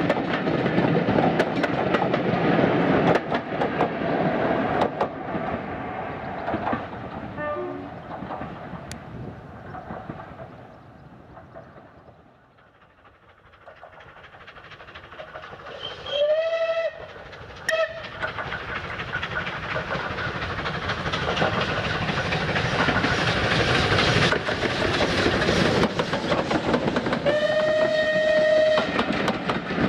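A heritage train's coaches clatter away along the track and fade out. After a lull a train approaches and grows steadily louder, sounding a single-note whistle about halfway through with a short extra toot just after, and a longer whistle near the end as its coaches pass.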